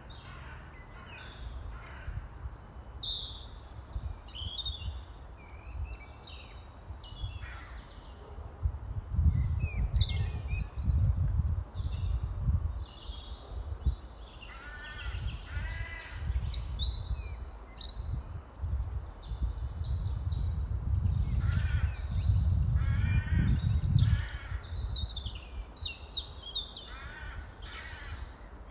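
Outdoor bird calls, including repeated crow-like caws and chirps. Two spells of low rumbling that rise and fall unevenly, a few seconds each, are the loudest sound.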